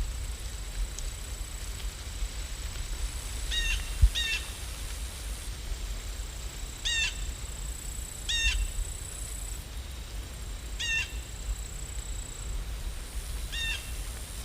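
A bird calling about six times in short hooked notes, mostly in pairs, over a steady low rumble.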